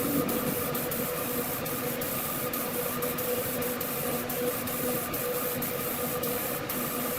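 A machine running steadily with a hum and a hiss, and irregular light ticks over it.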